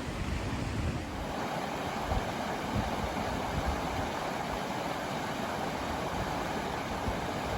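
Steady rushing of river water over rocks, with wind buffeting the microphone in uneven low rumbles.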